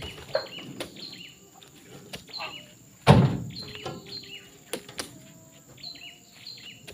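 A bird chirping over and over, short high notes that drop in pitch, with a faint steady high whine behind them. A single loud thump about three seconds in, and another right at the end.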